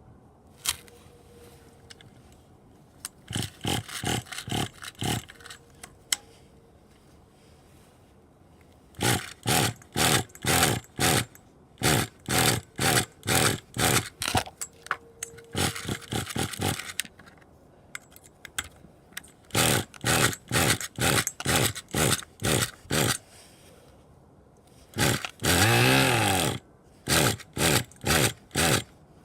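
RC model glow engine being turned over in groups of short bursts, about two a second, without running. Near the end it fires briefly for about a second.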